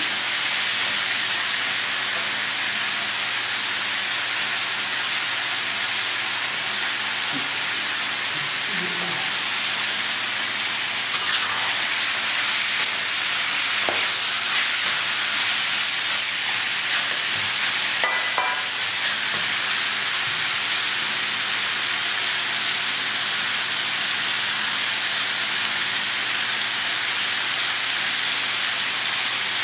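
Pork ribs and lemongrass sizzling steadily as they stir-fry in a wok. A metal spatula scrapes and knocks against the pan a few times midway.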